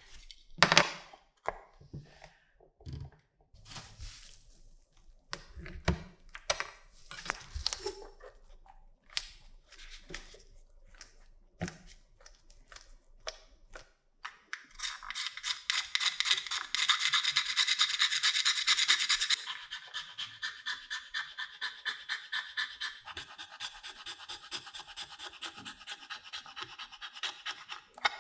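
Scattered knocks and clicks of parts being handled, then, about halfway through, quick rhythmic back-and-forth rubbing strokes of hand sanding, loudest for a few seconds and then softer.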